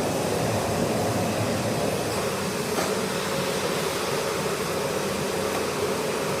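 TIG welding arc on stainless steel, a steady hiss with a faint hum.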